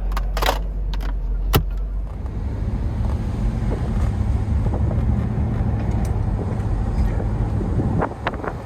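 1988 Mercedes-Benz 560SL's 5.6-litre V8 running as the car is driven, a steady low rumble with road noise. A few sharp clicks come in the first two seconds, the engine note shifts about two seconds in, and the level drops just before the end.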